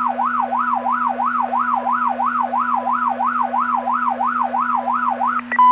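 Police car siren in a fast yelp, sweeping up and down about three times a second, heard over a police two-way radio channel through a transmitter that is stuck keyed on. A steady beep tone cuts in near the end.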